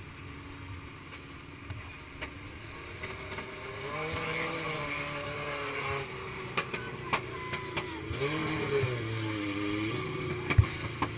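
Motorcycle engine running and being revved, its pitch rising and falling in slow swells that grow louder about four seconds in. A few sharp knocks come through it, the loudest near the end.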